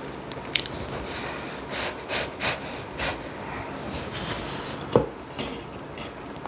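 Close-up eating of a very spicy kimchi stew: several short, sharp sniffs and breaths, bunched about half a second apart between roughly two and three seconds in, the kind drawn by the spiciness, with a single clack about five seconds in.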